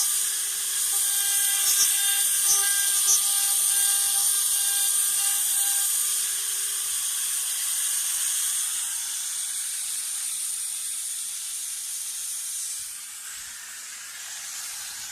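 CNC engraving machine's high-speed spindle whining steadily, then falling in pitch as it spins down about seven seconds in, over a steady hiss of the mist-cooling spray, which drops in level near the end.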